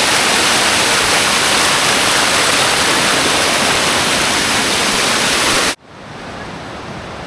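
Tumpak Sewu waterfall roaring: a loud, steady rush of falling water and spray. About six seconds in it cuts off abruptly, leaving a quieter rush.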